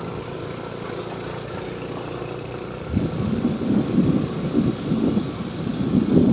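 Vehicle driving on a rough, rocky road. Its running noise is steady at first, then turns into a louder, uneven rumble about halfway through.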